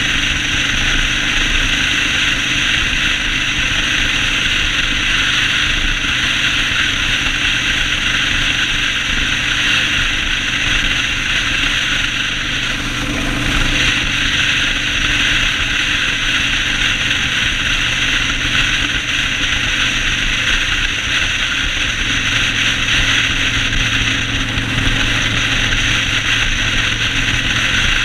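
Yamaha Road Star 1600 V-twin engine running steadily under way, under a strong, steady rushing noise. The engine note shifts slightly a little after two-thirds of the way through.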